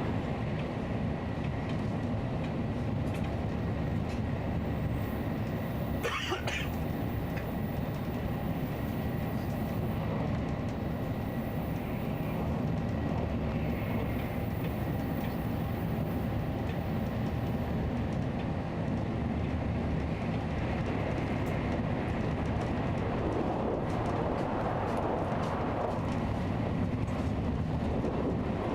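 Nozomi Shinkansen bullet train running at speed: a steady rumble, with a brief rushing sound about six seconds in.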